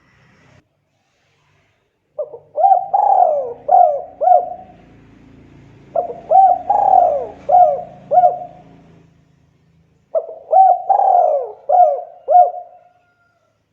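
Spotted dove (tekukur) cooing: three phrases a few seconds apart, each a quick run of about five rounded coo notes.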